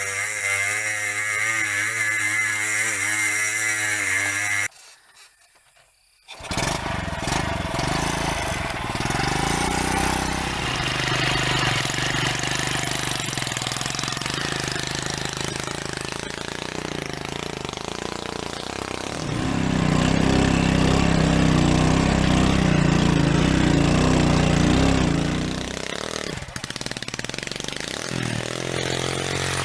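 A small engine running, cut off briefly a few seconds in, then running on and getting louder for about six seconds past the middle before settling back.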